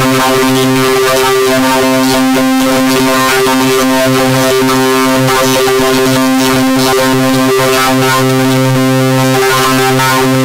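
Loud electronic music: a held synthesizer chord of steady tones with a harsh hiss over it.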